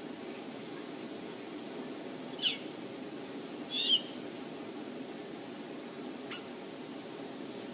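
A few short, high bird calls, the first dropping in pitch, over a steady low rush of wind on the microphone.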